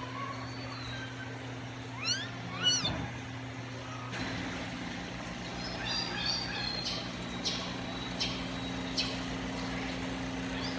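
Two short rising animal calls about two seconds in, then a series of short high chirps from birds later on, over a steady low mechanical hum.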